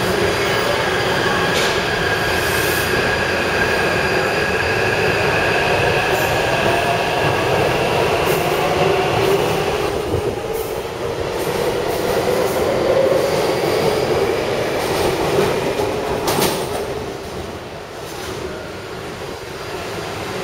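Taipei Metro C301/C371 train running on the track, with steady running noise. Steady high tones ride over it and stop about halfway through, and the noise eases off near the end.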